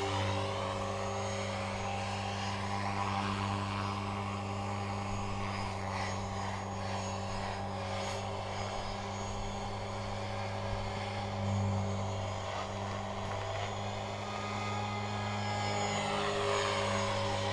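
Align T-Rex 500 radio-controlled helicopter hovering inverted, its rotor and motor running at a steady pitch with slight swells as the pilot corrects.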